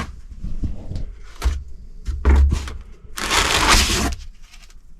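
Cardboard box being pulled and torn open by hand: a few short rips and scrapes, then a longer, louder tearing noise about three seconds in.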